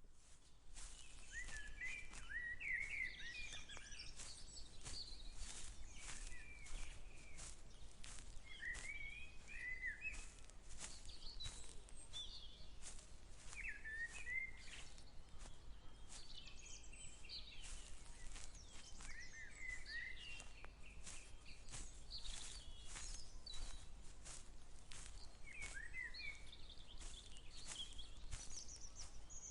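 Footsteps at a steady walking pace, about two a second, while birds sing short warbling phrases every few seconds.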